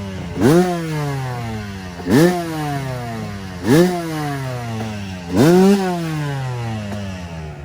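Dirt bike engine revved in sharp throttle blips, four times, each rev rising quickly and then falling away slowly over about a second and a half.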